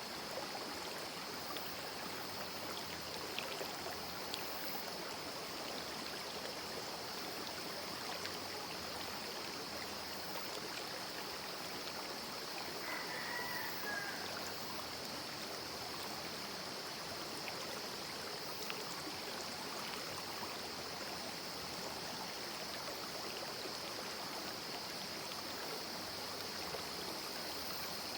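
Small rocky river stream flowing steadily, a continuous babbling of water, with a steady high-pitched tone above it. A short bird chirp about halfway through.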